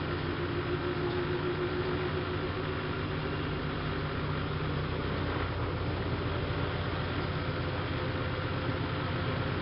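Siemens Siwamat IQ front-loading washing machine running, a steady motor hum and whir with a few constant tones and no pauses.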